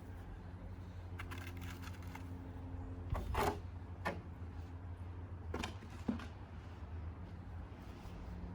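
A handful of short clicks and scrapes, the loudest about three seconds in, over a steady low hum.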